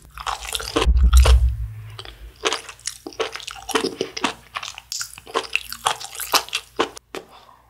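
Close-miked chewing of a mouthful of food, a dense run of crisp crunching and popping clicks, with a low thud about a second in.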